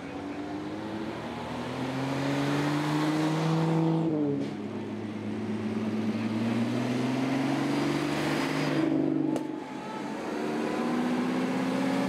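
Vintage car engines accelerating past one after another. The engine note climbs, drops sharply about four seconds in as at a gear change, and climbs again; it breaks off around nine seconds, and another engine follows, rising.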